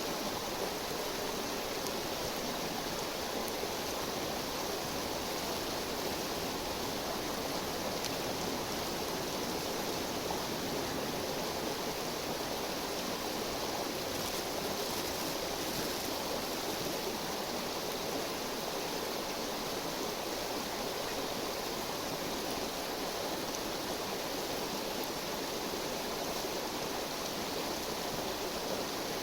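A river's flowing water, a steady even rushing.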